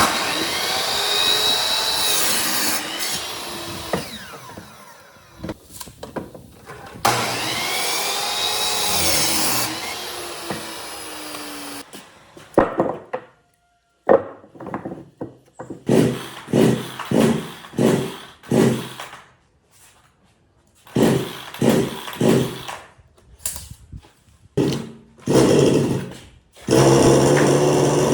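Power tool working wood in two long spells, its pitch bending as it loads. It is followed by a run of short, rhythmic strokes on wood, about one or two a second, and the tool runs again near the end.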